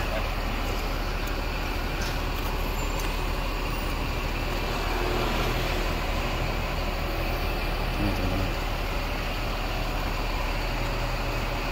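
Bus engine running steadily: a constant low hum under an even rush of noise, swelling slightly about halfway through.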